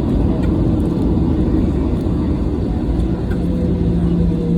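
Airliner engine and airflow noise heard inside the passenger cabin: a loud, steady rumble. A steady low hum comes in about three and a half seconds in.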